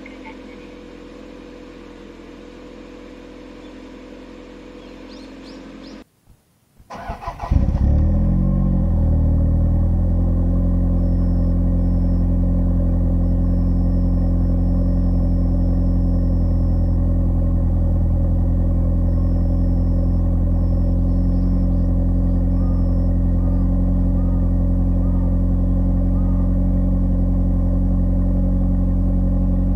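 Cold start of a Toyota Celica GT-Four ST205's 3S-GTE turbocharged 2.0-litre four-cylinder engine: after a low hum, it cranks briefly and catches about seven seconds in. It then settles into a loud, steady cold idle.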